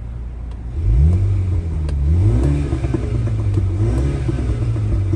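2018 MINI John Cooper Works Countryman's turbocharged four-cylinder engine, exhaust valve open in sport mode, idling and then revved several times in quick blips starting about a second in, with small crackles and pops from the exhaust as the revs fall.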